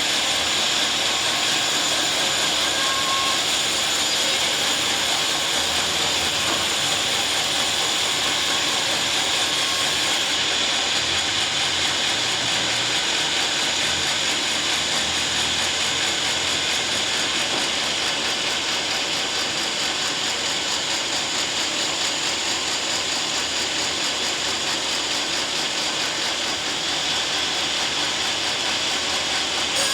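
Sawmill saw running steadily as it cuts through a teak log: a continuous loud, even machine noise with a high whine and no breaks.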